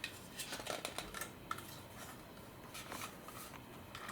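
Faint, scattered small clicks and taps of plastic parts and wires being handled as a replacement power trigger and its connectors are worked into a Dyson V10 vacuum handle.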